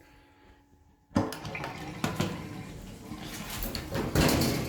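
Water rushing and draining in a newly plumbed laundry sink, with scattered knocks, after a second of near silence.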